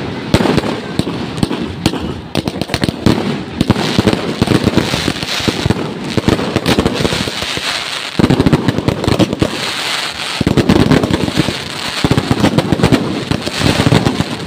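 A fireworks barrage: a rapid, continuous run of bangs and crackles, thickening into denser volleys in the second half.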